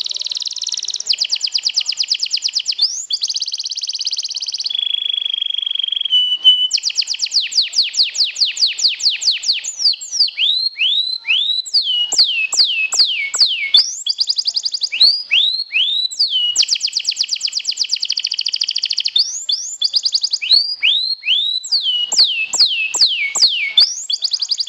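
Domestic canary singing a long, loud, unbroken song: fast rattling trills, a briefly held whistle, and runs of quick falling swooping notes, several a second.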